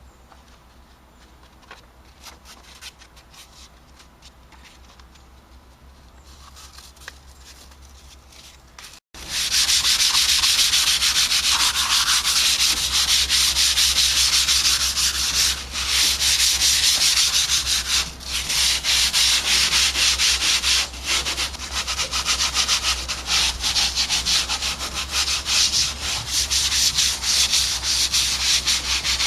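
Hand sanding with 240-grit sandpaper on a van door's repaired lower panel, a light scuff before painting. It is faint and scratchy at first. After an abrupt cut about nine seconds in, it becomes loud, steady sanding with a few brief pauses.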